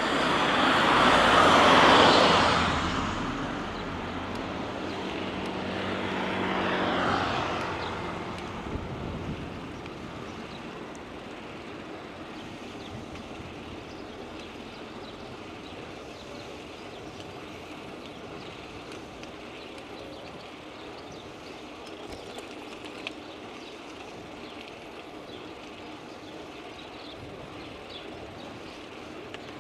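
Two motor vehicles pass close by in quick succession: the first is loudest about two seconds in, the second smaller one about seven seconds in, each a swell of engine hum and tyre noise that dies away. After that only a steady low rush of ride and wind noise remains.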